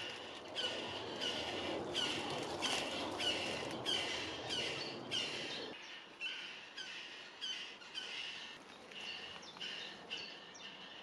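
Long-tailed tits calling: a short call repeated about twice a second, over a background hiss that drops away about halfway through.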